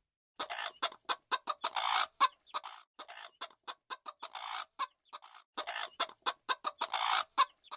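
A bird giving rapid, short clucking calls in two dense bouts, with scattered single calls between them.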